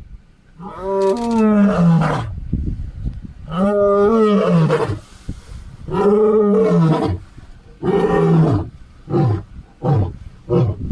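A big cat roaring. There are four long, deep roars, each falling away at the end, and then a quickening series of shorter grunts from about nine seconds in.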